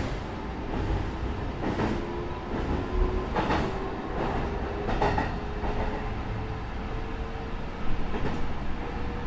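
Sanyo 6000-series electric train running, heard from inside the front car: a steady rumble of wheels on rail with a faint motor whine that rises slowly in pitch as the train gathers speed. Wheels clack over rail joints about once a second, sharpest about three and a half and eight seconds in.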